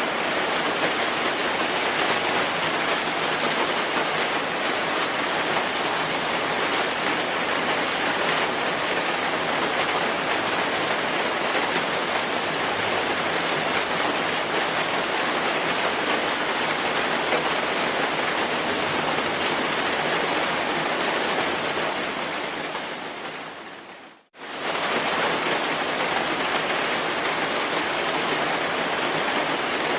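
Steady, dense rainfall. About three quarters of the way through it fades to silence over a couple of seconds, then cuts straight back in at full level, like a loop restarting.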